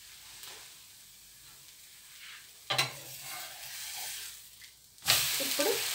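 A metal slotted spatula knocks and scrapes against the frying pan about three seconds in as a zucchini-carrot dosa is lifted and turned. From about five seconds in there is loud sizzling as the dosa fries in butter.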